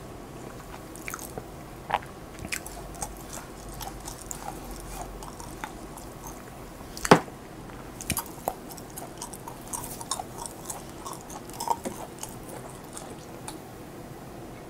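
Close-miked chewing and biting of food, with scattered small wet clicks and smacks. One sharp click stands out about seven seconds in.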